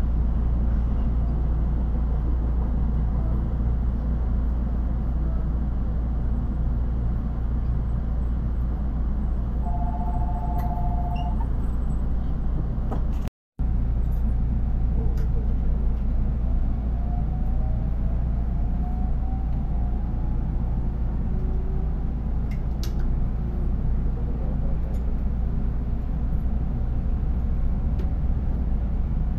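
Steady low rumble of freight tank cars rolling past close by, heard from inside a stopped train. After a cut, a JR 313 series electric train pulls away, its motor whine rising slowly in pitch as it accelerates over the steady running rumble.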